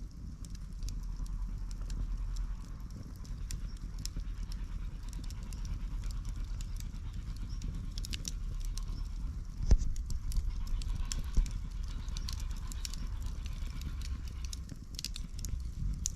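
Campfire burning: wood crackling with frequent small pops over a low rumble, and a couple of louder pops about ten and eleven seconds in.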